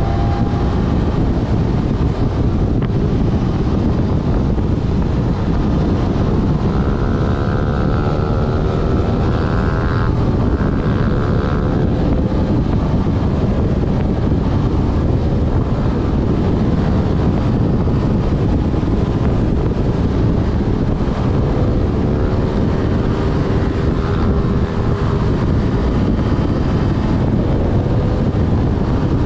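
Yamaha Fazer FZ6S's inline-four engine running at riding speed, its pitch rising and falling several times as the rider accelerates and eases off, under heavy wind rush on the microphone.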